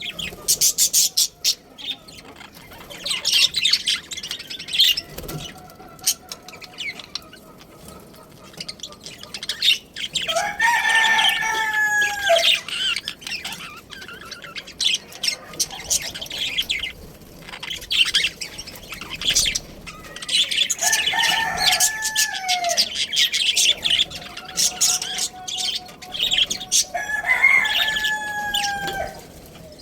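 A rooster crowing three times, each crow about two seconds long and ending in a held, falling note, over constant fast chirping of small cage birds.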